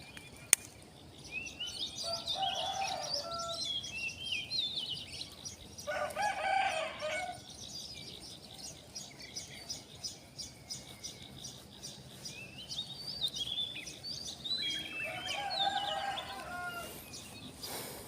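A rooster crowing three times, with small birds chirping between the crows.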